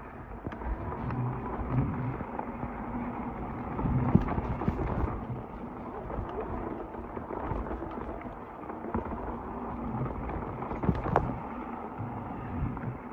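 Mountain bike rolling fast down a dirt trail: steady tyre and trail rumble with wind noise, and a couple of sharp knocks from bumps about four seconds in and near the end.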